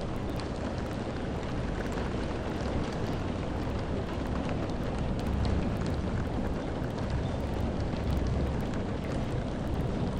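Steady rain, an even hiss over a deep rumble, with scattered small drop ticks. The rumble swells a little about halfway through and again near the end.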